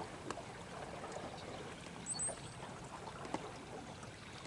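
Faint running water of the river current, with a few small clicks and a short high chirp about two seconds in.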